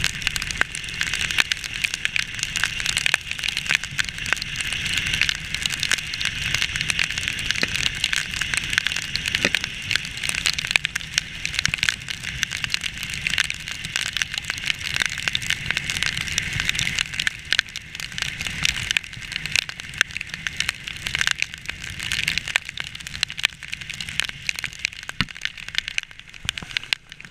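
Heavy rain hitting the camera in dense sharp ticks over a steady hiss of rain and tyre spray on wet road, from a moving motorcycle, with a low rumble underneath.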